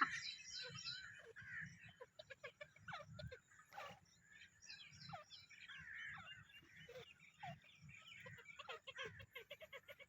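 Faint bird calls: many short chirps and quick down-sweeping notes from several birds, scattered and irregular.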